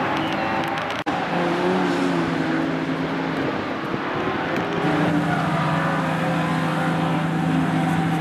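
Car engine running with a steady hum; its pitch shifts during the first few seconds and then holds even. The sound breaks off for an instant about a second in.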